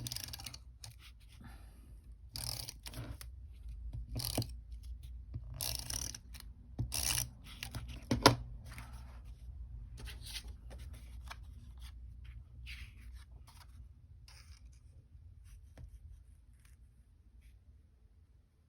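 Paper being handled and worked at a craft table: irregular rustling, rubbing and cutting strokes, with a sharp knock about eight seconds in and the strokes growing quieter toward the end.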